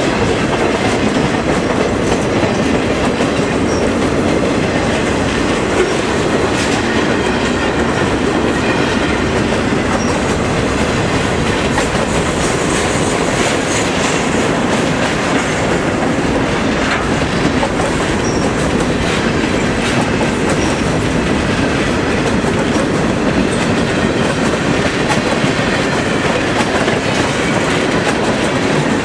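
A train's cars rolling past on the rails in a steady loud rumble, with the wheels clacking over the rail joints.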